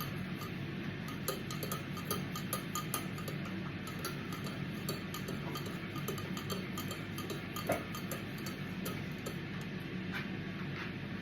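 Light, rapid ticking and clinking from making a cup of tea, over a steady low hum.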